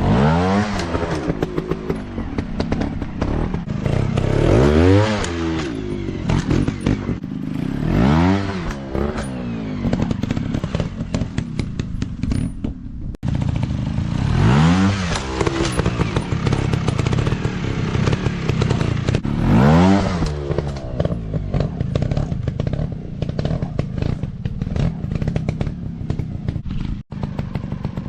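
Dirt bike engine running throughout and revved about five times, each rev rising and falling in pitch, with clattering in between.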